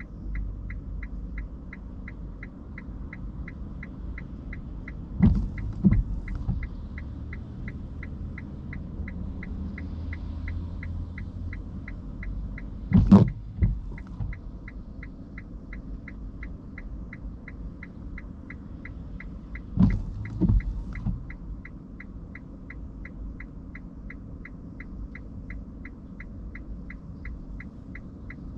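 Inside the electric car's cabin, a turn-signal indicator ticks evenly about twice a second over a steady low hum. A few dull knocks stand out, a pair about 5 seconds in, one loud one near the middle and another pair about two-thirds of the way through.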